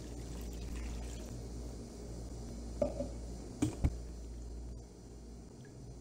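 Water pouring into a pan of mung bean flour mixture and being stirred with a silicone spatula. A few short knocks come a little past halfway, and the pouring sound eases off near the end.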